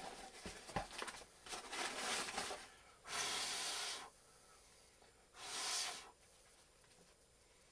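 Mail packaging being opened by hand: small clicks and rustling, then two tearing sounds, each about a second long, a couple of seconds apart.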